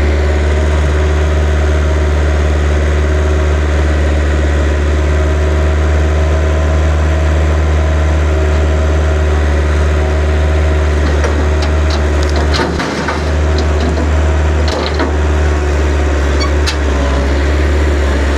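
A vehicle engine running steadily with a deep, constant drone, with a few light clicks and rattles in the second half.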